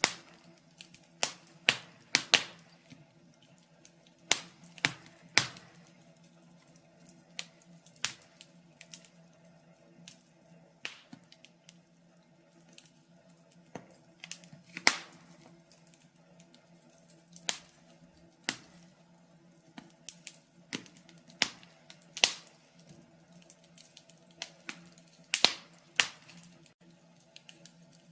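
Crackling log fire: irregular sharp pops and snaps of burning wood, several a second at times, some much louder than others, over a faint steady hum.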